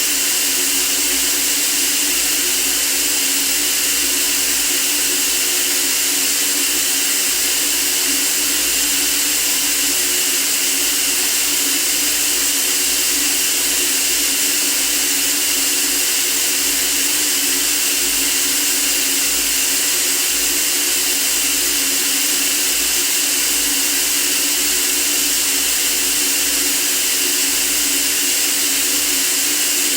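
Steady white noise: an even, unchanging hiss, brightest in the treble, with a faint steady hum underneath.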